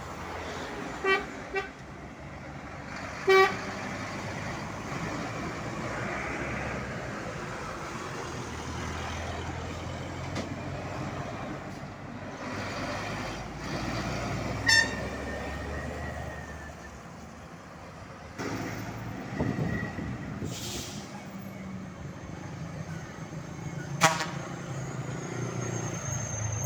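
Road traffic with a truck engine running steadily, and a vehicle horn giving several short toots: two quick ones about a second in, another a couple of seconds later, then single toots near the middle and toward the end.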